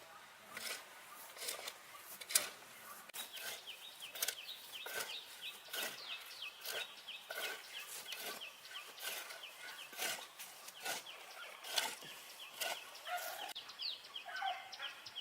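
Repeated sharp knocks about every half second, joined a few seconds in by a high, rapid chirping at about four a second.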